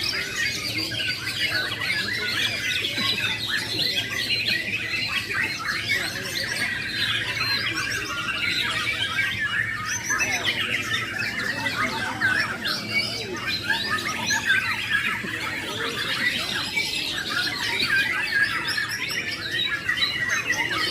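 Many caged songbirds singing at once in a songbird contest: a dense, unbroken chorus of rapid chirps, trills and squawks.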